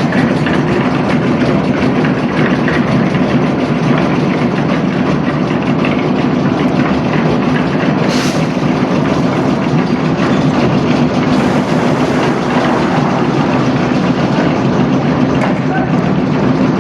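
Concrete mixer's engine running steadily, with the drum rattling continuously. There is a brief, sharper noise about eight seconds in.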